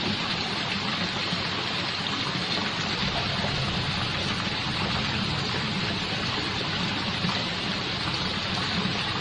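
Heavy rain pouring down on a flooded street: a steady, even hiss of rainfall.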